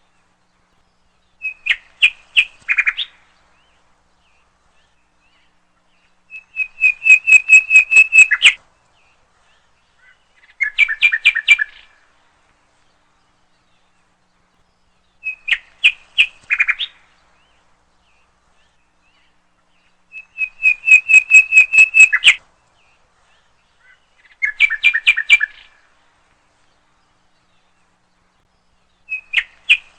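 Bird chirping in short, rapid trills, three kinds of phrase with silent gaps between them. The same sequence of phrases repeats about every fourteen seconds.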